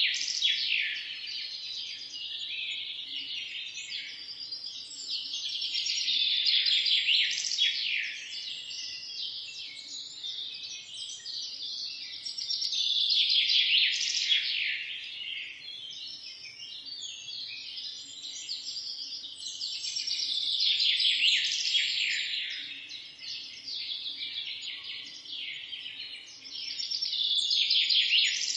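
Many small birds chirping and trilling together in a dense morning chorus, swelling louder and fading back about every seven seconds.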